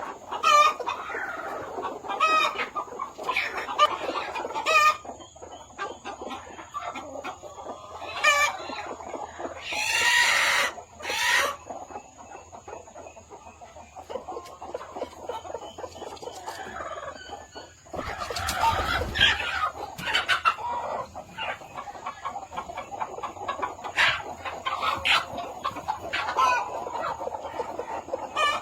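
Chickens clucking, with many short, sharp calls scattered throughout and one longer call about ten seconds in. A louder, noisier burst comes about eighteen seconds in.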